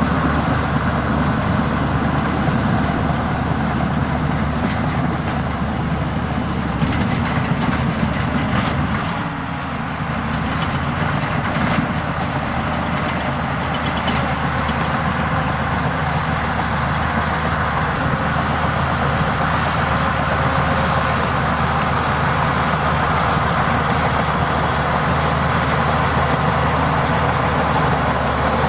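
Heavy diesel earthmoving machinery running steadily, with a spell of clanking and rattling in the middle lasting several seconds.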